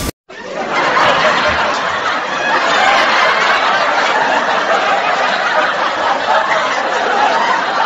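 Many voices laughing and chattering at once in a dense, continuous crowd sound that starts after a brief silent gap about a quarter second in.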